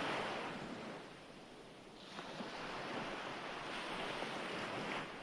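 Ocean waves washing onto a shore: one wave dies away in the first two seconds, and the next swells in about two seconds in and fades near the end.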